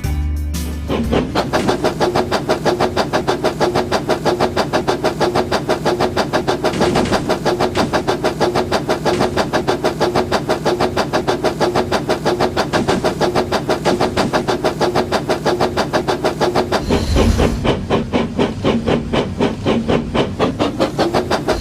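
Battery-powered toy brick train running: a steady motor hum with a fast, even pulsing beat. Around seventeen seconds in, a deeper rumble joins for a couple of seconds.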